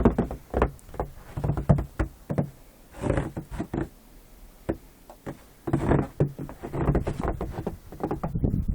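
A run of irregular knocks, thumps and crunches, a few a second, with a quieter stretch midway.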